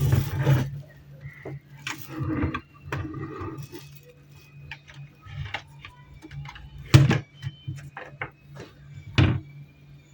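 Irregular clicks and knocks of handling, the loudest two about seven and nine seconds in, over a steady low hum.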